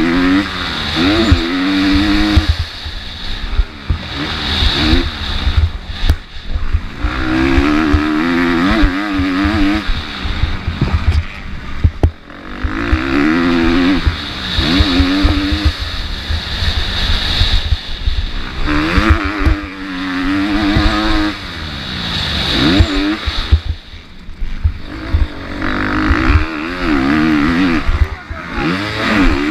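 MX2 motocross bike engine racing around a dirt track: revving hard up and backing off over and over, every second or two, as the rider accelerates and shuts off for the turns and jumps, with a heavy rough rumble underneath.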